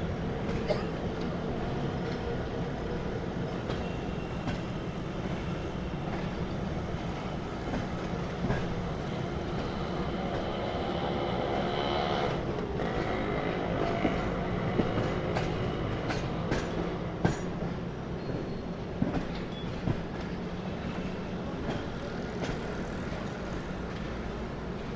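Passenger train running along the track: a steady rumble of wheels on rails with scattered sharp clicks and knocks, and a faint whine in the middle.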